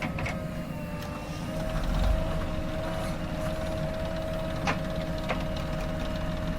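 Diesel engine of a JCB 3DX backhoe loader running steadily, with a steady high tone over the low rumble and a few sharp knocks, the loudest about two thirds of the way in.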